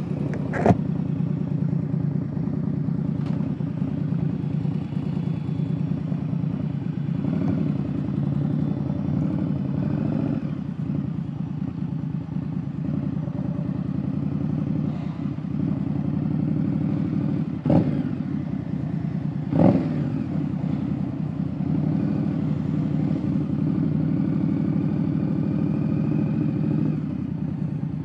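Indian Scout Bobber Twenty's liquid-cooled V-twin engine running steadily, with a few short sharp clicks about two-thirds of the way through.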